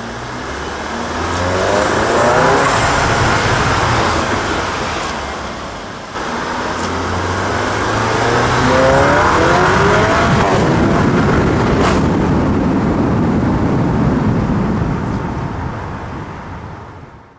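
Car engine revving hard, its pitch climbing in two separate runs, with a sudden change in sound about six seconds in, under loud rushing noise, then fading out at the end.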